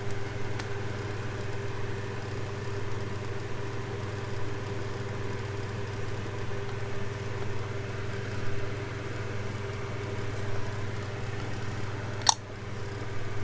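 Steady machine hum from a running motor, holding one pitch throughout, with a single sharp click about twelve seconds in.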